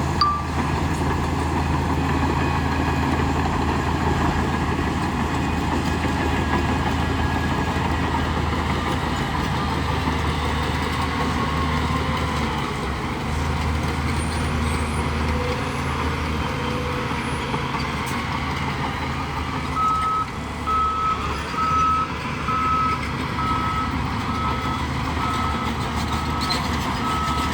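Heavy diesel earthmoving machinery running steadily at work. About two-thirds of the way through, a reversing alarm starts beeping at an even pitch, a little faster than once a second, as a machine backs up.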